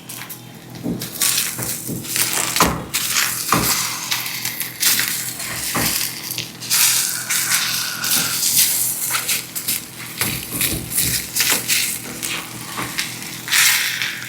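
Eggs and sliced hot dogs sizzling in a cazuela on the stove, a hiss that swells and fades, with occasional clicks and knocks of a utensil against the pot.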